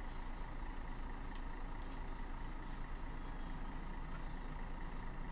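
A steady low background rumble, with a few faint short smacks of chewing and mouth sounds as someone eats soft fruit.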